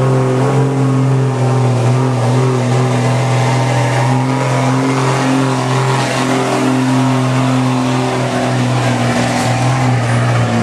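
Diesel pickup truck engine held at high revs under load, as it pulls a weighted sled down the track. The engine runs loud and steady at nearly one pitch, wavering only slightly.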